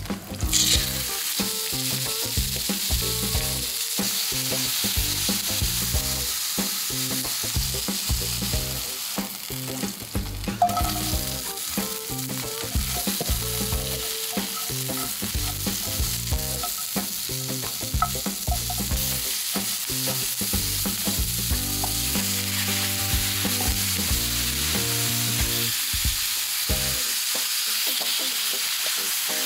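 Beef cubes and vegetables sizzling in a hot cast-iron skillet, with a sharp burst of hiss about half a second in as the meat hits the pan. The food is stirred and turned with wooden chopsticks, adding small clicks and scrapes on the iron.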